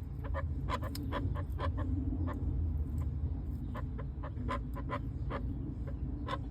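Partridges calling: a scatter of short, sharp notes, often several in quick succession, over a steady low rumble.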